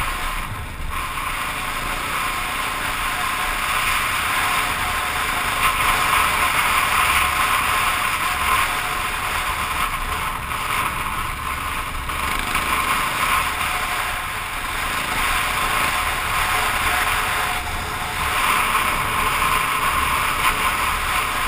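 KTM dirt bike engine running while the bike is ridden along a dirt trail, its level swelling and easing every few seconds with the throttle.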